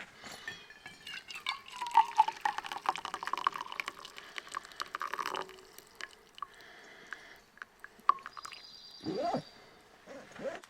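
Coffee poured from a French press into a mug: a stream of liquid runs for about four seconds, then stops. A short rising-pitched sound comes near the end.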